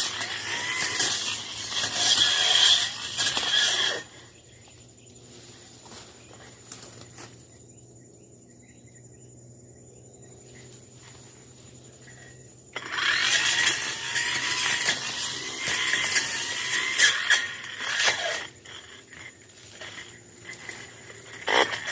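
Brush cutter cutting through dense undergrowth in two long loud stretches of crackling and swishing, the first at the start and the second about halfway through, with a quieter lull between them and a few short bursts near the end.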